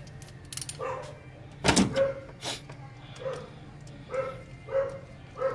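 A dog barking repeatedly, about seven short barks spread across a few seconds, with one sharp knock a little under two seconds in.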